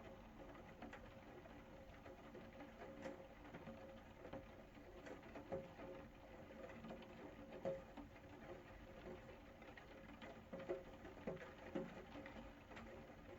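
Faint rain pattering: a steady soft hiss with irregular drips and taps landing every fraction of a second.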